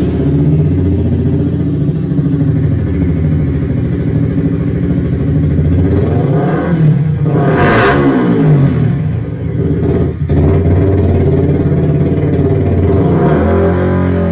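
Suzuki GSX-R150's single-cylinder four-stroke engine running through a Lonerider aftermarket exhaust, idling steadily and revved up and back down about halfway through, with another rev near the end.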